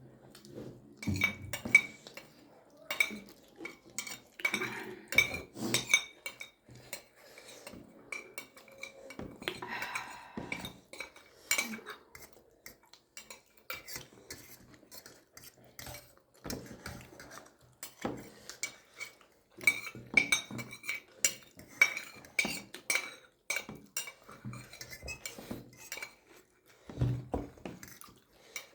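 Cutlery clinking and scraping against plates while momos are eaten: many irregular sharp clinks, some with a short ring.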